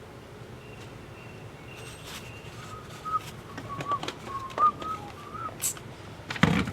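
A person whistling a run of short notes, each ending in a slight upward flick. A few sharp clicks fall among the notes, and a louder thump comes near the end.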